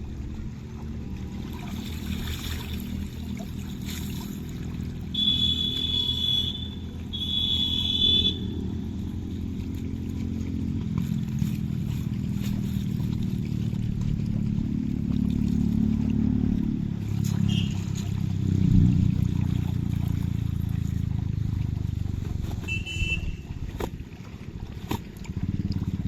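A motor vehicle engine running, its pitch rising and falling, with two horn blasts about a second long each about five and seven seconds in, and a couple of short, fainter beeps later on.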